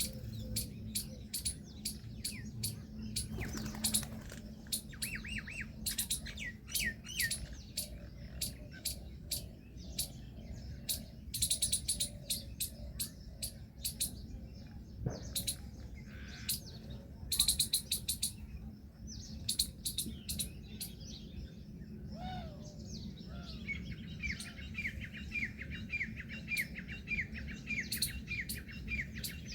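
Birds chirping: many short, sharp calls, with a fast run of quickly repeated notes in the last few seconds, over a low steady hum.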